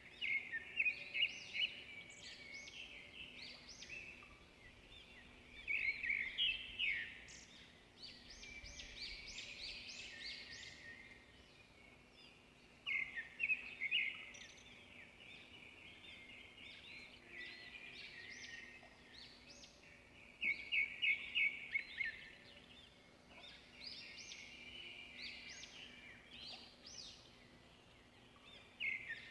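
Birds chirping and singing in bursts of quick, high repeated notes every few seconds, over a faint steady hum.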